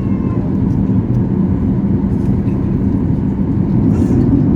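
Ryanair jet airliner on the ground at the start of its takeoff, a steady low rumble of the jet engines and the rolling wheels.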